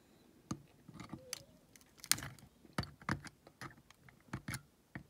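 Irregular light clicks and taps of small tools against a diecast toy's metal body and base, as a stubborn riveted base is worked loose.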